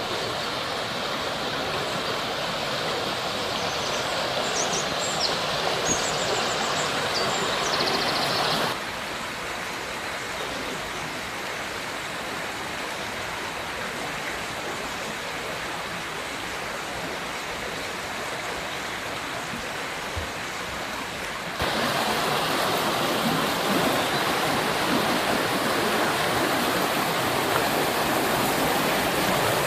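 River water rushing over rocks, a steady hiss. It drops quieter about nine seconds in and comes back louder about twenty-two seconds in.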